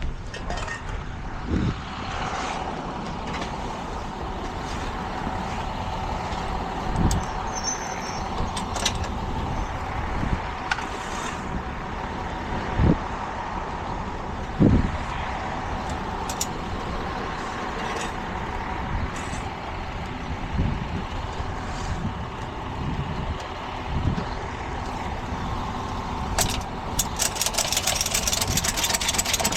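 Tow truck's engine running steadily with a steady whine, broken by several separate low thumps and clanks. Near the end a fast, even clicking starts up over the engine.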